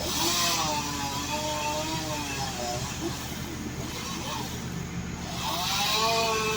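Tree-work machinery engines: a steady low engine hum, with a higher-pitched motor rising and wavering in pitch twice, once at the start and again near the end.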